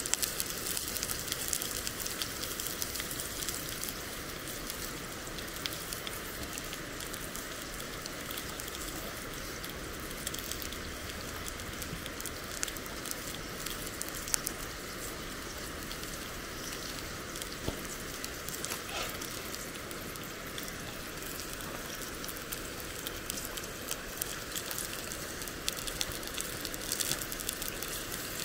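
Food sizzling in a cast-iron pan over a wood fire: a steady hiss scattered with dense, fine crackles.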